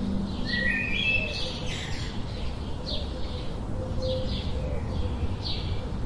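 Birds chirping in forest: short high chirps repeating irregularly, with a short rising run of whistled notes about a second in, over a steady low background hum.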